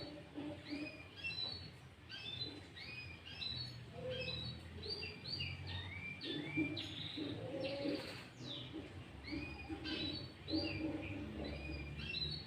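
Sooty-headed bulbul singing a rapid run of short, arched whistled notes, several a second, in a loud and clear song. Softer, lower notes sound underneath.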